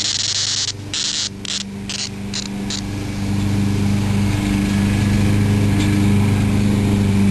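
Periodical cicada buzzing in a stuttering series that breaks off repeatedly and stops about three seconds in. A steady low machine hum runs underneath.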